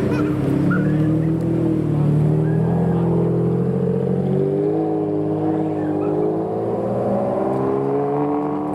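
Supercar engine running at low revs, its pitch rising and easing back a couple of times as the car moves off gently.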